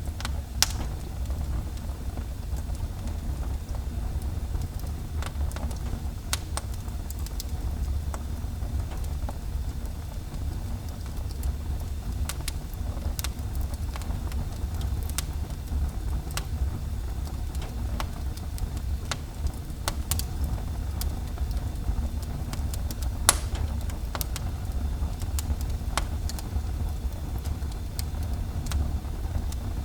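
Wood fire burning in a fireplace: a steady low rumble with scattered crackles and pops, two of them sharper, one near the start and one about two-thirds of the way through.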